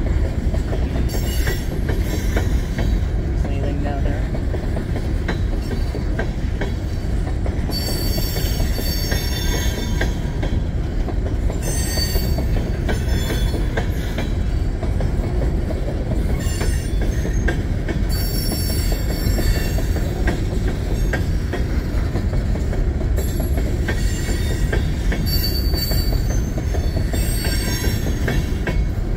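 Empty coal cars of a freight train rolling past with a steady rumble and the click of wheels over the rail joints. High-pitched wheel squeal comes and goes several times, each spell lasting a second or a few seconds.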